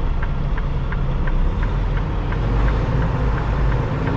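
Diesel engine of a Freightliner Cascadia semi-truck running steadily while backing, with a rapid, regular ticking at about three ticks a second.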